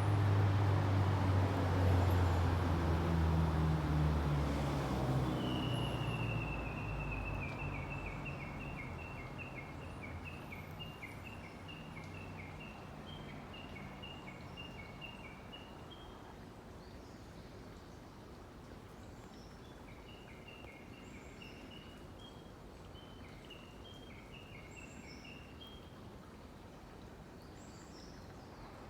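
A Japanese bush warbler sings two long runs of rapid, evenly repeated high notes, each lasting several seconds. A low rumble at the start fades out before the first run begins.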